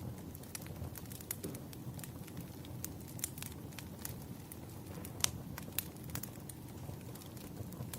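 Burning firewood crackling: a steady low noise from the fire with frequent sharp pops and snaps, the loudest about five seconds in.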